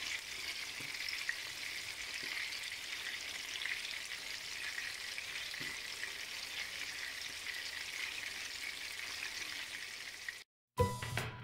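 Beef burger patties sizzling as they shallow-fry in oil in a pan: a steady sizzle with fine crackles that cuts off abruptly near the end.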